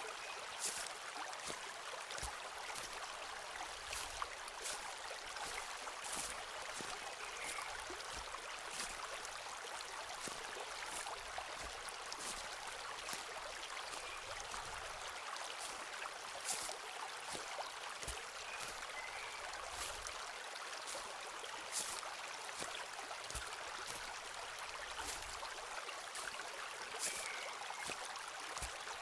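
Footsteps walking along a forest path, a short crunch about every one to two seconds, over the steady rush of running stream water.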